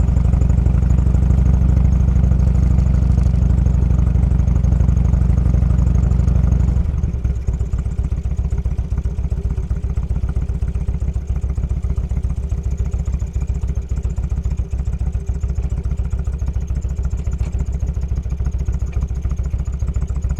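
Motorcycle engine running steadily, then settling to an idle about seven seconds in. It is a little quieter after the change, with its firing pulses coming evenly and rapidly.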